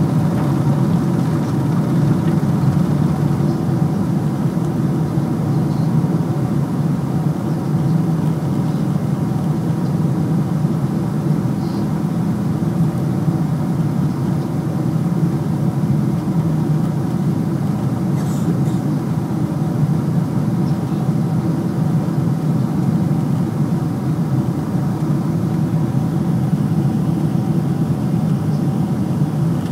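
Jet engines and airflow of a Boeing 747-438ER, a steady drone with a few faint steady tones above it, holding level without rising or falling.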